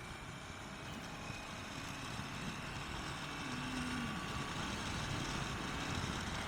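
Motorcycle on the move, heard from the rider's camera: a steady low rumble of engine and road noise that slowly grows louder.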